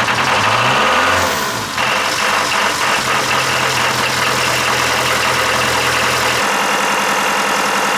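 Mercedes OM636 four-cylinder diesel engine running, its pitch shifting about a second in and then holding steady; the low hum drops away about six seconds in.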